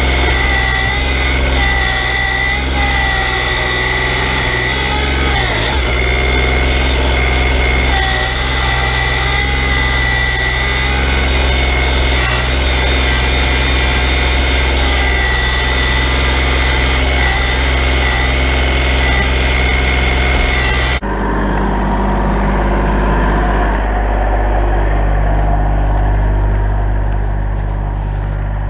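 Kubota L3901 tractor's three-cylinder diesel engine running steadily, with a high steady whine over it. About three-quarters of the way through, the sound changes abruptly to a deeper, quieter engine note.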